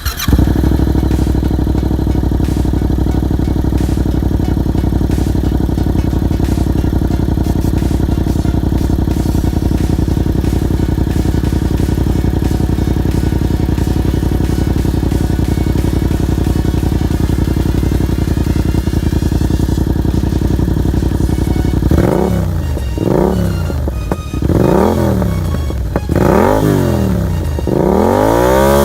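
Yamaha MT-07's 689 cc parallel-twin engine idling steadily, then blipped about five times near the end, the pitch rising and falling with each twist of the throttle.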